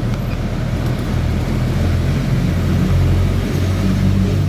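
An engine running steadily at idle, a low hum that swells slightly midway.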